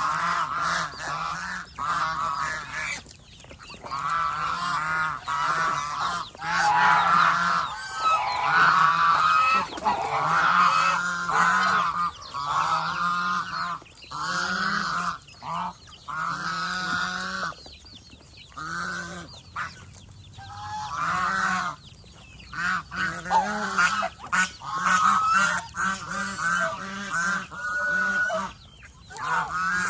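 Domestic geese honking, many short calls overlapping and repeating with brief pauses between bouts.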